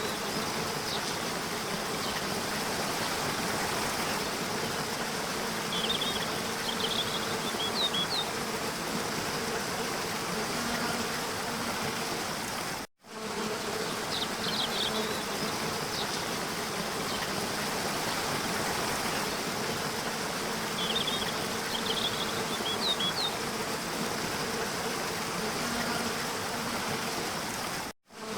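Waterfall: a steady rush of falling water with a faint steady drone beneath it and a few clusters of short high chirps. The sound cuts out for an instant about 13 s in and again near the end, where the recording loops.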